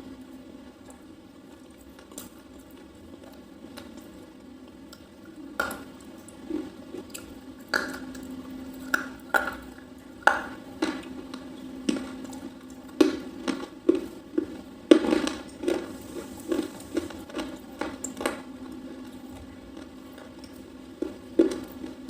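Biting and chewing a soft red slate pencil: a string of sharp, crisp crunches, densest in the middle and sparse near the end, over a steady low hum.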